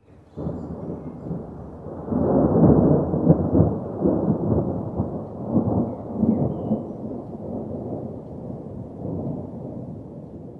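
Thunderstorm: rolling thunder over rain, swelling about two seconds in and slowly dying away.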